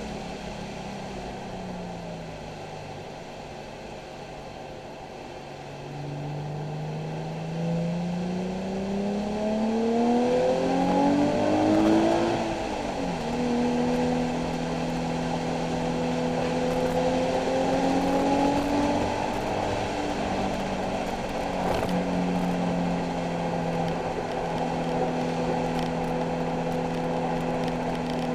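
Nissan 370Z's 3.7-litre V6 at track speed: it slows for a few seconds, then revs up hard and drops sharply at an upshift about twelve seconds in. After that it pulls fairly steadily at high load, over steady road noise.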